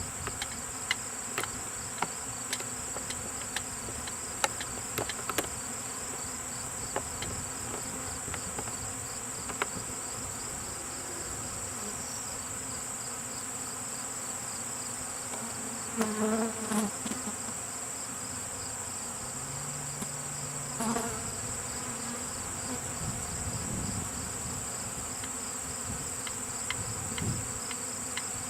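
Honeybees from a freshly shaken swarm buzzing in the air around the hive box, with single bees passing close now and then as short, louder buzzes. A steady high insect whine runs underneath, with light clicks in the first few seconds.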